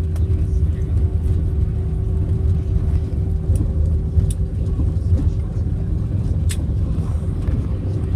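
Cabin noise of an Airbus A321 on the ground after landing: a loud, steady low rumble of the engines and the rolling aircraft, with a steady hum and a few faint clicks.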